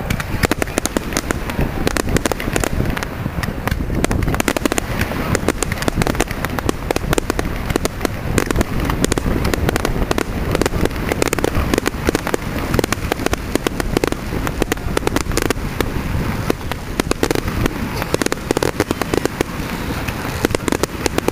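Fireworks display: a dense, unbroken barrage of bangs and crackles going off in rapid succession.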